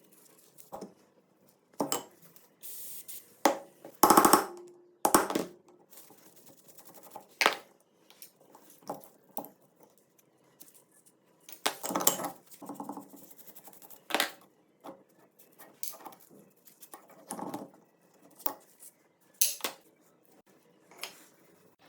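Irregular clinks and knocks of small metal shotgun parts being handled and set down on a work surface, with a short stretch of scraping about three seconds in.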